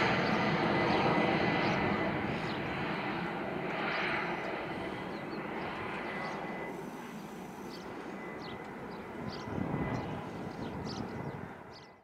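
Airbus A319-112's CFM56 turbofan engines at takeoff thrust, a broad jet roar with a faint steady whine, fading gradually as the airliner climbs away.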